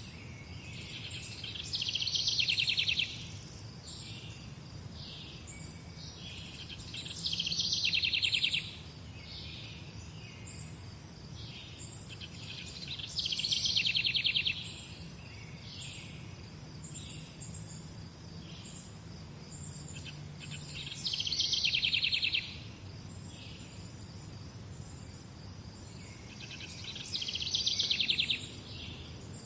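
Morning birdsong: one bird repeats a loud, rapid trilled phrase about every six seconds, five times, each lasting a second or two. Fainter chirps from other birds fill the gaps over a steady background hiss.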